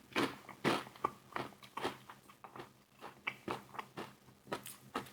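Close-miked chewing and crunching of KFC fried chicken wings: a string of short crunches, a few each second, the loudest in the first second.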